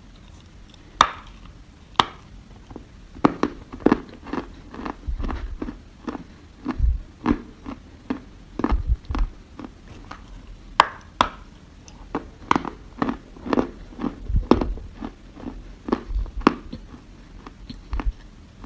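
Dry soil being bitten and chewed: an irregular run of sharp crunches and clicks, several a second, with occasional low thumps.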